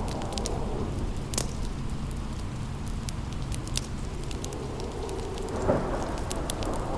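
Rain and a low rumble of thunder, with a wood fire crackling in short sharp pops scattered through it.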